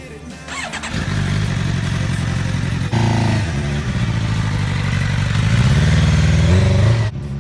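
Suzuki GSX-R 750 sport bike's inline-four engine with a Yoshimura carbon-fibre exhaust, running and revving. The engine note jumps up about three seconds in, rises in pitch again around six seconds, and cuts off suddenly near the end.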